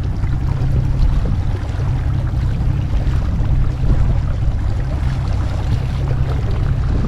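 Small open boat under way: its motor runs steadily under a heavy low rumble, with water rushing along the hull and wind on the microphone.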